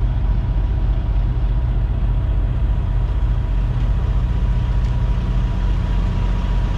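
Semi truck's diesel engine idling with a steady, even rumble.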